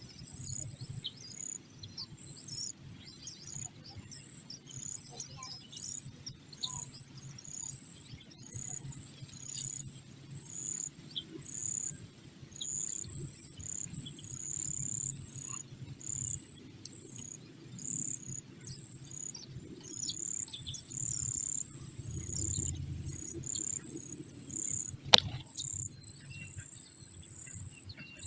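Small birds chirping over and over in short, high-pitched calls, with a steady high insect whine under them for the first third. A single sharp click sounds about 25 seconds in.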